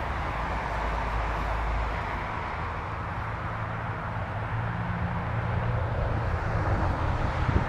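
Steady outdoor background noise with a low hum underneath, no single event standing out.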